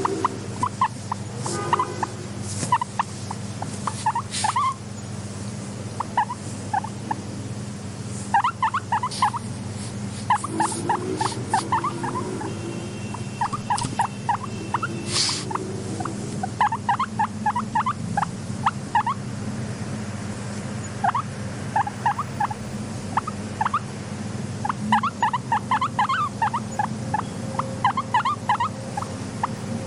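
Guinea pigs squeaking in quick runs of short squeaks, with a few low rumbling purrs, over a steady low hum.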